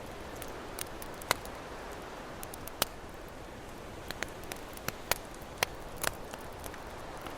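Campfire crackling, with sharp pops at irregular intervals, over the steady wash of ocean waves.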